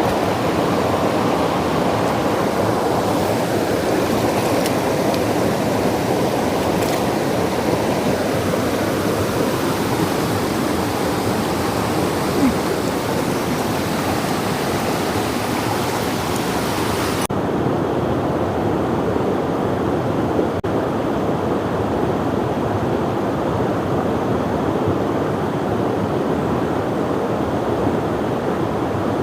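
Mountain stream water rushing steadily over rocks. About two-thirds of the way through, the high hiss drops away suddenly, leaving a duller rush.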